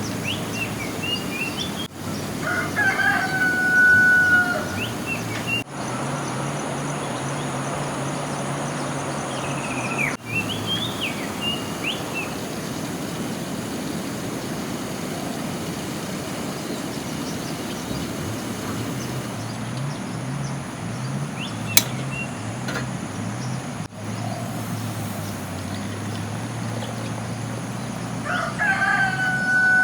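A rooster crowing twice: a long held crow a few seconds in and another near the end. Under it runs a steady hiss of background noise, and a single sharp click comes partway through.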